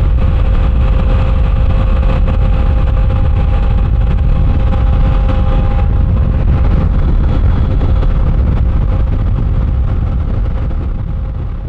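Motorcycle riding at a steady speed: heavy wind rush on the microphone over a steady engine drone, fading out near the end.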